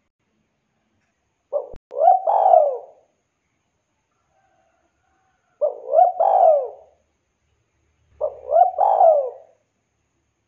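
Spotted dove (tekukur) cooing: three calls, each a short note followed by a longer rolling coo, with gaps of a few seconds between them.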